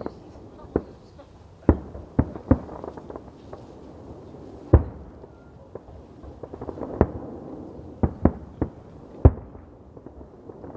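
Fireworks and firecrackers going off: about eleven sharp bangs at irregular intervals, the loudest about halfway through and again near the end, over a steady background of more distant crackling and rumbling fireworks.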